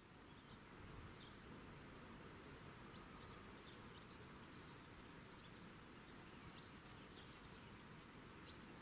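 Near silence: faint steady outdoor background noise with scattered short, high bird chirps.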